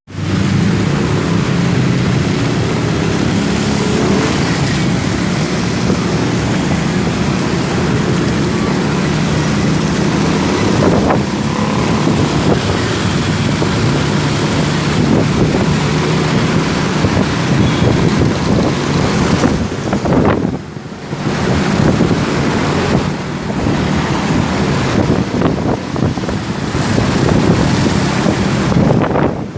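Motorcycle engine running while riding, with heavy wind noise buffeting the microphone. The engine note shifts a few times, and the sound dips briefly about two-thirds of the way through.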